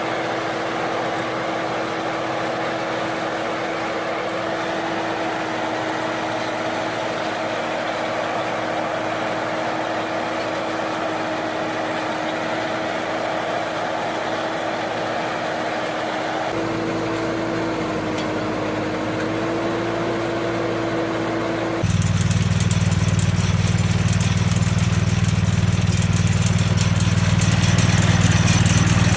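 Engine-driven hay baling machinery running steadily. The sound changes abruptly about two-thirds of the way in, and again a few seconds later to a louder, deeper engine drone.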